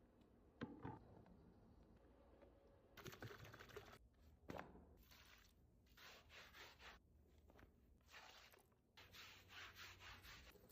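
Faint hand scrubbing: runs of short, rhythmic scraping strokes, with a few knocks in between.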